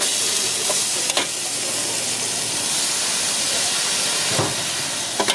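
Shredded cabbage and green vegetables dropped onto a hot oiled flat street-food wok, bursting into a loud, steady sizzle the moment they land. A few sharp clicks cut through it.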